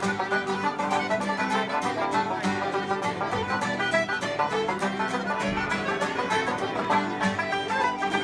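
A ceilidh band playing a traditional dance tune, with quick, evenly spaced notes over a steady beat.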